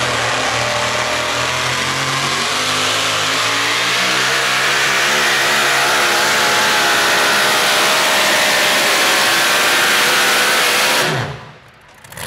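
Super modified front-wheel-drive pulling truck's engine running hard at high revs under load, its pitch wavering slightly, then falling away abruptly about eleven seconds in.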